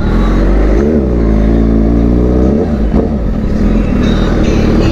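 Suzuki GSX-R600 inline-four engine fitted with a new aftermarket exhaust, running and revving. Its pitch rises and falls back about a second in, then climbs for about a second and a half before dropping off near the three-second mark.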